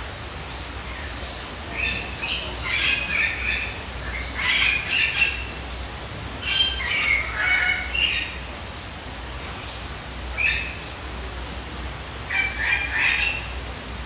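Birds calling: short, rapid notes in clusters, separated by pauses of a second or two, over a steady low hum.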